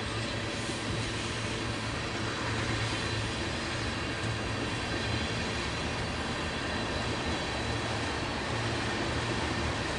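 Empty tank cars of a freight train rolling past: a steady rumble of steel wheels on rail.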